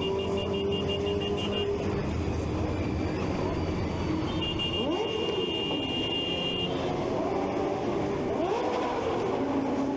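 Motorcycle engines running in slow traffic, with engines revved up and let back down twice, about five and eight seconds in. A high-pitched beeping sounds in the first two seconds, and a steady high tone from about four to seven seconds in.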